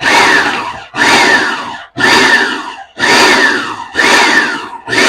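Food processor pulsed about once a second, chopping cilantro, onion and bell pepper coarsely. Each pulse starts sharply as the motor whirs up, then falls in pitch as it winds down before the next press.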